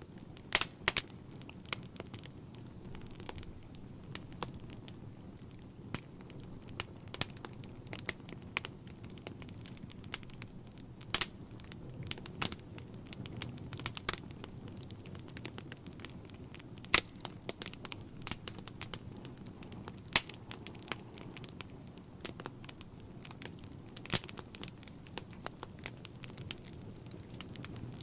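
Wood fire burning in a fireplace: a low steady rumble of flames with irregular crackles and pops, a few louder snaps scattered through.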